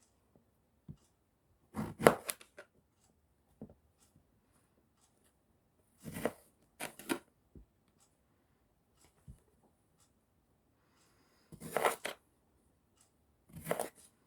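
Knife slicing through eggplant onto a cutting board: slow, irregular cuts, some single and some in quick clusters of two or three, with pauses of a second or more between them.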